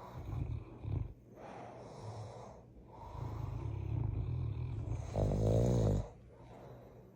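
Big dog snoring in its sleep: low rumbling snores one after another, the loudest a rattling snore about a second long, about five seconds in.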